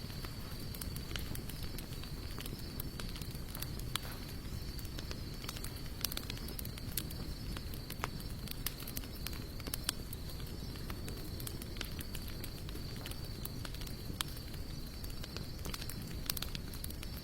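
Campfire of sawtooth oak and mixed hardwood logs burning, with a low steady rumble and frequent irregular sharp crackles and pops. A thin steady high-pitched tone sits behind it.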